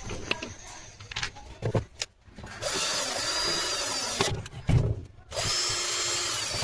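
Electric marble cutter's motor, fitted with a new armature, switched on and run in two short bursts with a knock between them. Handling knocks come before it.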